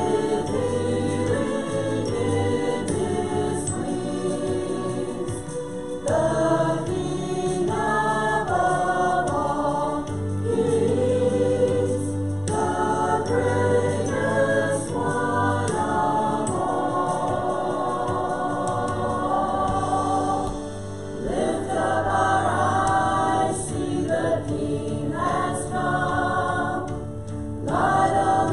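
Congregational singing of a gospel hymn with instrumental accompaniment, a choir of voices singing together in phrases.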